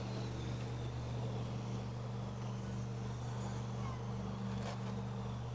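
A steady low hum, with faint high whines that rise and fall from electric RC short-course trucks.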